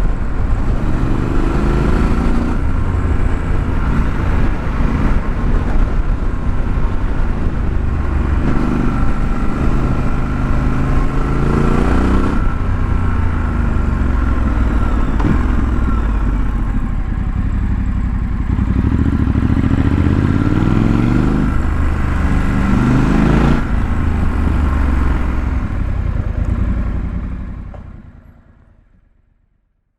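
2021 Triumph Scrambler 1200 XE's 1200 cc parallel-twin engine on its stock exhaust, heard on board while riding. It revs up several times, each rise cut short by a gear change, then fades out near the end.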